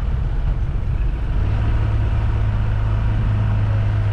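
Vehicle engine running while driving, a steady low drone that eases for about a second near the start and then holds steady.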